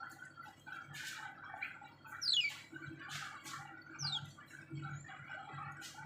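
A bird calling: short, harsh chirps about once a second, with two sharp whistles sliding steeply down in pitch, the first a little past two seconds in and the second about four seconds in.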